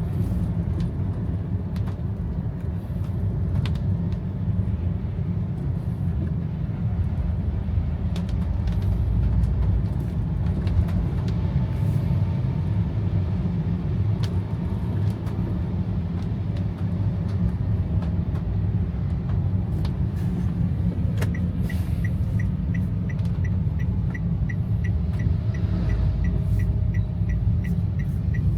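Steady low rumble of a car in rain, heard from inside, with scattered sharp taps. About three-quarters of the way in, a fast, even ticking starts, about three ticks a second, and keeps going.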